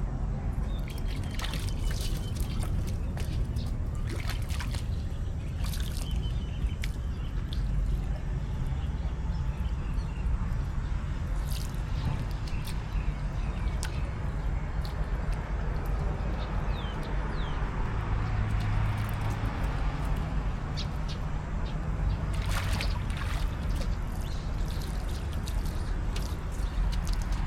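Pool water splashing and sloshing as young macaques play in it, in scattered short splashes over a steady low rumble, with a few brief high chirps.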